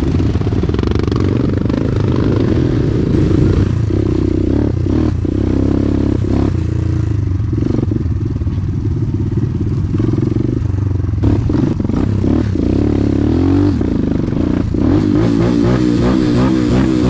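Motorcycle engine running under way, its pitch rising and falling with the throttle, with scattered short knocks and clatter.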